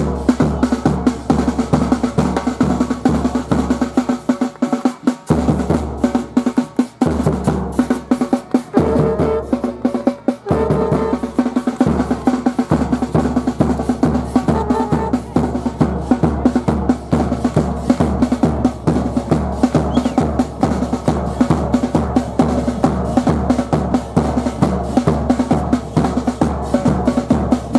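Supporters' drums playing a steady, driving beat: bass drum with snare rolls. The low drum drops out a few times in the first half, then the beat runs on evenly.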